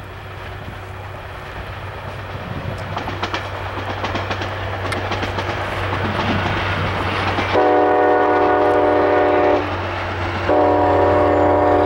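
ACE commuter train passing: rumble and wheel clatter on the rails grow steadily louder, with a steady low hum underneath. Then the train's horn sounds two long chord blasts, the second starting about a second after the first ends.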